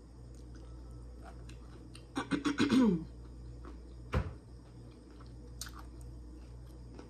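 Close-up eating sounds of a woman chewing fried chicken, with small scattered clicks of chewing. About two seconds in, a short voiced 'mm' hum slides down in pitch. About four seconds in there is a single sharp thump.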